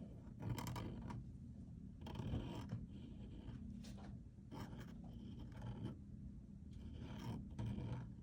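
A pen or marker drawing on paper: irregular scratchy strokes, some short and some drawn out.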